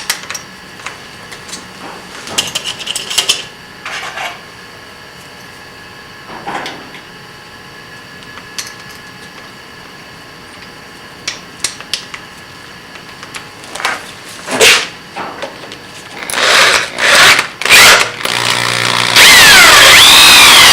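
Electric drill with a 1/4 inch bit reaming out welded steel bushings to clear weld scale, cutting in short irregular bursts over a faint steady motor hum. About 19 s in, a much louder steady rushing noise starts.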